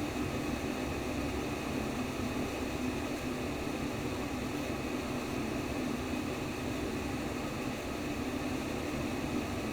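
Steady white noise of a womb-sound recording for babies: an even, unbroken rushing hiss, weighted toward the low end.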